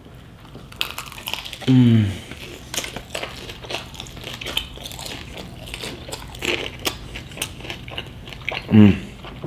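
Close-up biting and chewing of crispy fried chicken, with irregular crunches and mouth clicks. Two short hums with falling pitch come about two seconds in and near the end.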